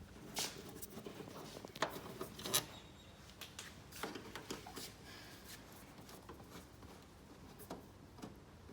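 Irregular light clicks, taps and scrapes of hand work on caravan fittings, a few sharper knocks about two seconds in.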